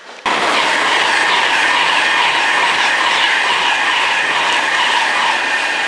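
High-speed express passenger train passing close at speed: a loud, steady rush of wheels on rail and air that starts suddenly just after the start.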